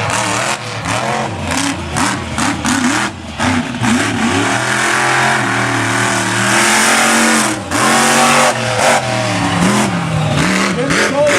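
Monster truck engine revving hard on a racing run, its pitch rising and falling repeatedly as the throttle is worked.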